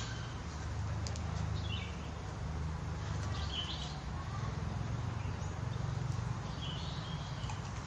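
A few short bird chirps, about four of them spaced a couple of seconds apart, over a steady low rumble.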